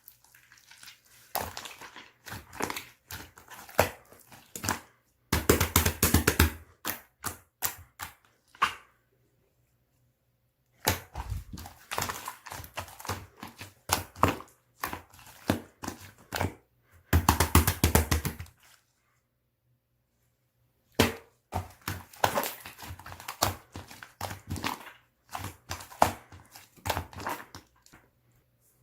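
Slime being squished, stretched and poked by hand: irregular wet clicks and air-bubble pops, with two stretches of dense rapid crackling when it is pressed hard, broken by short silent pauses.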